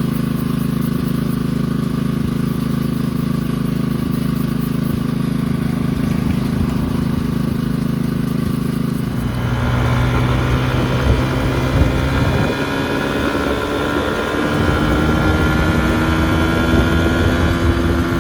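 Kawasaki KLX140L dirt bike's small single-cylinder four-stroke engine running steadily. About nine seconds in the note changes and then climbs slowly in pitch, as the bike pulls away under throttle on a test ride.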